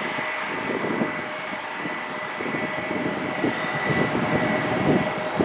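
Jet airliner engines running, a steady whine over a rushing noise, growing somewhat louder toward the end.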